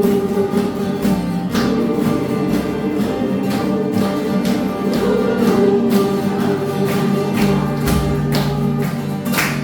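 Acoustic guitars strummed in a steady rhythm, with voices singing along as a group.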